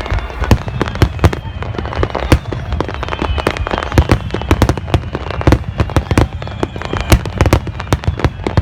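Aerial fireworks bursting: a dense, irregular string of sharp bangs and crackles, several each second, with faint falling whistles behind them.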